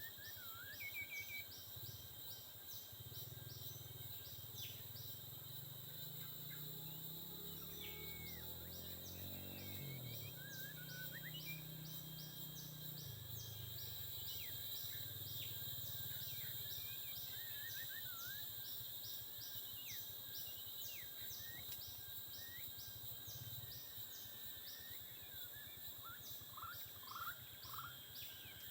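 White-rumped shamas giving short whistled and sweeping calls over a steady chorus of forest insects pulsing rapidly. A low droning hum underlies the first half, rising in pitch about nine seconds in and fading out by about thirteen seconds.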